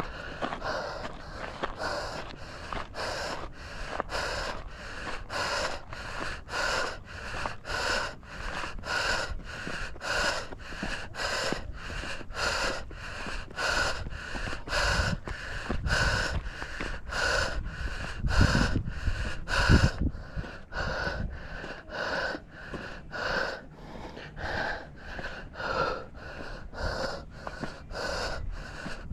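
A runner's hard, rhythmic breathing on a steep uphill climb: loud, noisy breaths in and out, about one and a half a second. A few low rumbles come midway.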